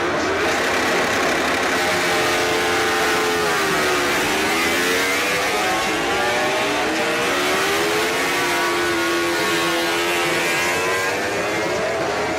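MotoGP racing motorcycles' engines at race pace, several bikes at once. Their pitch drops under braking about four seconds in and again a couple of seconds later, then climbs as they accelerate out of the corner.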